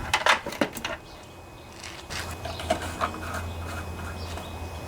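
Handling noise as the mower's engine cover and parts are moved: two sharp knocks close together near the start, then light rustling over a low steady hum.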